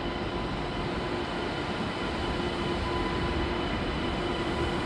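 SNCF double-deck TGV high-speed train rolling slowly through an underground station: a steady rumble with a faint steady hum.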